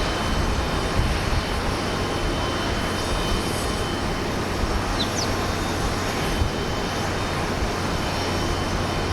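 Jet airliner engines running at takeoff thrust, a steady, even roar.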